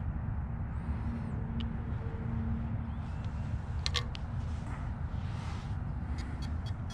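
Steady low outdoor rumble with a few faint clicks about four seconds in and again near the end.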